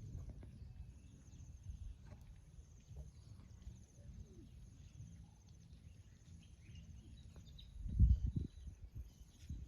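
Wind buffeting the microphone in an uneven low rumble, with a stronger gust about eight seconds in, over faint high rhythmic chirping.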